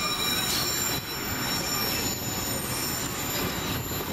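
Narrow-gauge train running, heard from aboard: a steady rumble of wheels on the track with a thin, high, steady squeal from the wheels on the rails.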